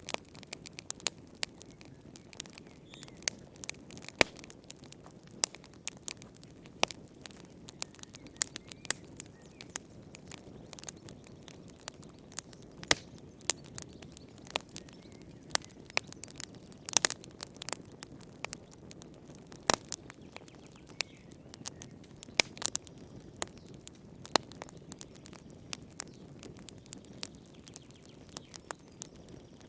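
Wood fire burning in a fireplace, with irregular sharp crackles and pops over a low steady rush of flame.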